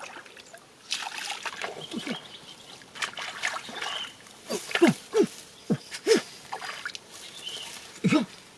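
Water splashing and sloshing, with several short gurgles that drop quickly in pitch.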